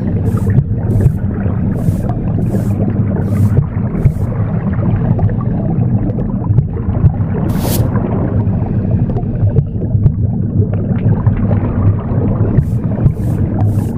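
Broom bristles swishing in even strokes, about one every 0.7 s, over a steady low whooshing rumble of recorded womb sound. The sweeping stops about four seconds in, with a single stroke near the middle, and starts again near the end.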